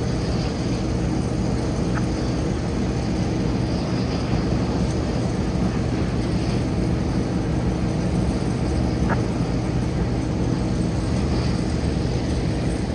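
Airliner engines running at a steady low drone with a constant hum, typical of jet aircraft taxiing.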